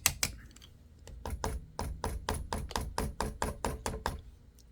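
A rapid, even series of small hard clicks or taps, about five a second. One run stops shortly after the start, and a second runs from about a second in until near the end.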